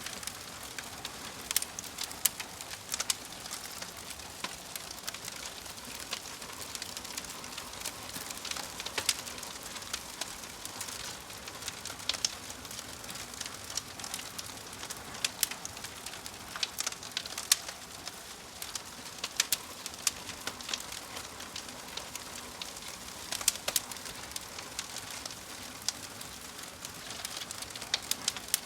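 Wood fire crackling: sharp pops and snaps at irregular intervals over a steady hiss.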